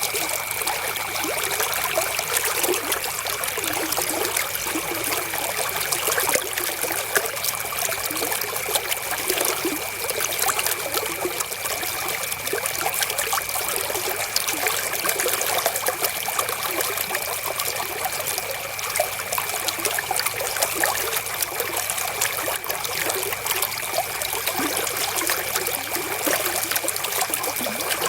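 River water flowing over stones, a steady trickling and burbling without let-up.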